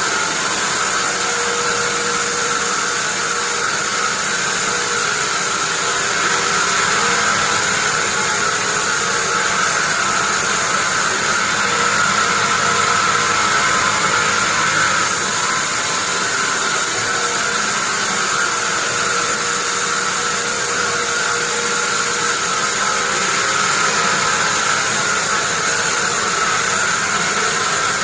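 Sawmill bandsaw running steadily: a constant high whine over an even mechanical noise.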